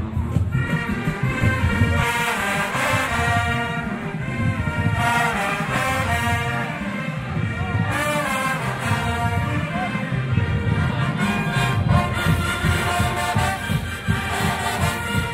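Brass band music: horns playing a melody over a steady drum beat.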